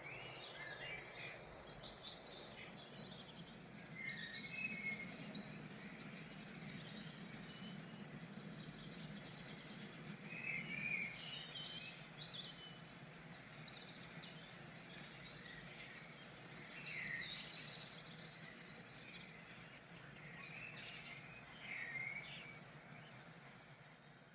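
Several small birds chirping and calling in short, scattered notes, over a steady low background hum.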